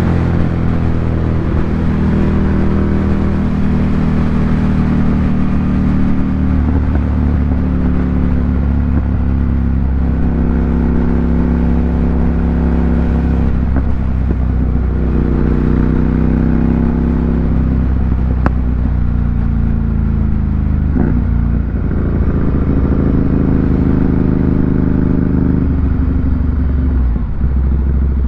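Ducati Monster 797's air-cooled L-twin running loud through an aftermarket SC Project exhaust. The engine note holds a steady pitch for stretches of a few seconds, then shifts or falls away several times.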